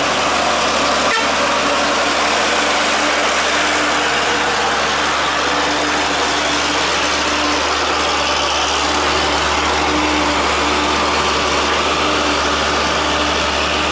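Heavy truck running steadily, with a loud, even rushing noise over a low engine hum.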